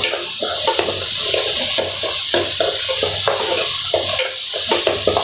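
Chopped onions, green chillies and garlic sizzling in hot oil while a spatula stirs them around the pan: a steady frying hiss with quick, repeated scraping strokes of the spatula against the pan. The onions are at the roasting stage.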